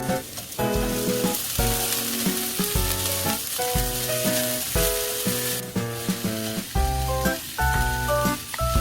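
Food sizzling in a frying pan, a steady hiss, under background music with a plucked melody and bass.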